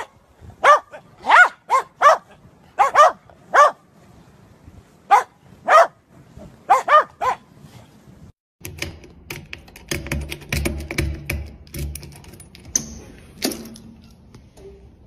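Dog barking in a quick series of short, high yips, about a dozen in the first seven seconds. Then, from a cut, a run of sharp clicks and clatter over a low rumble.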